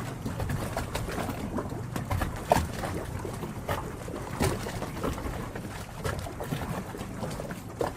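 Harbour water lapping and sloshing against hulls and the quay, with irregular small slaps and knocks every second or so.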